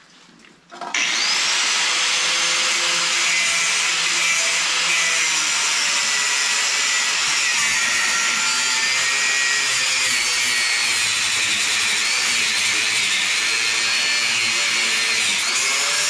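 Angle grinder starting up about a second in and cutting into the steel frame, a steady loud grinding noise with a high motor whine that dips and wavers in pitch as the disc is loaded.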